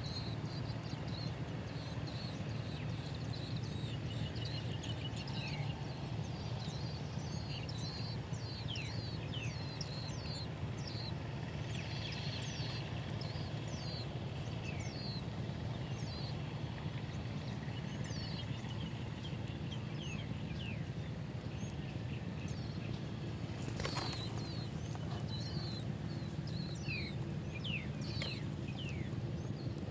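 Small birds chirping, with many short, high chirps that drop in pitch coming at irregular moments throughout, over a steady low hum. A single brief knock sounds about three-quarters of the way through.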